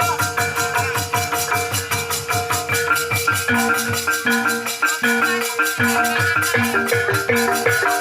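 Banyumas-style gamelan playing a tayub gending, instrumental only: keyed mallet instruments struck in a fast, even pulse over held ringing tones, with steady drum beats.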